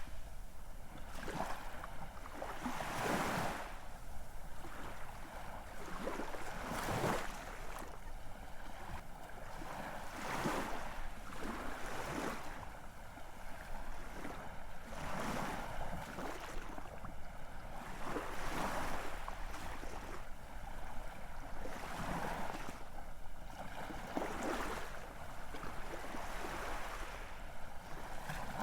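Ocean waves washing in, with a surge of surf every two to four seconds over a steady hiss of water.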